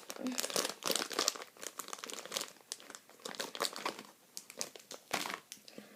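Plastic wrapper of a Warheads Extreme Sour hard candy crinkling and tearing as it is unwrapped by hand, a dense run of irregular crackles with a louder rip about five seconds in.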